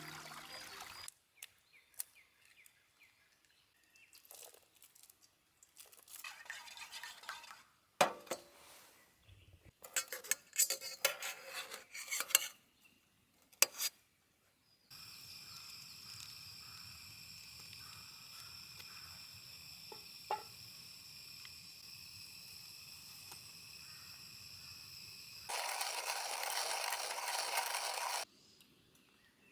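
Cookware and utensils clinking and knocking in a series of short bursts. This gives way to a steady outdoor hush with a thin high drone, then a louder hiss for a few seconds near the end.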